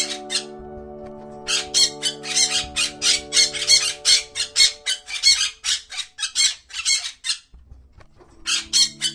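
Macaw giving rapid runs of harsh squawks, about four a second, with a pause near the start and another near the end, over background music with held low notes.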